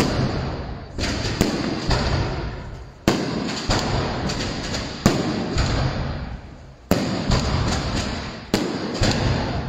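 Aerial fireworks going off close overhead: about a dozen sharp bangs from bursting shells, coming every half second to second and a half, each trailing off in a long rumble before the next.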